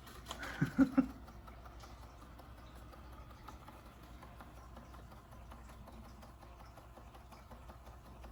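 Robot vacuum cleaner running faintly, creeping about with small scattered clicks rather than a strong suction sound. About half a second in there is a brief, loud three-part vocal sound.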